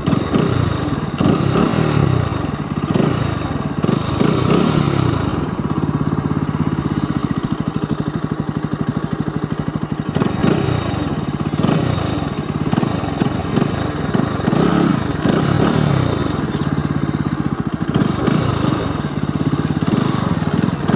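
Motorcycle engine running steadily, with low rumbling swells in the sound.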